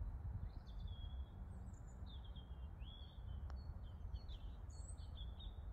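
Songbirds chirping and singing, with short calls scattered throughout over a steady low rumble. A single faint sharp click comes about three and a half seconds in.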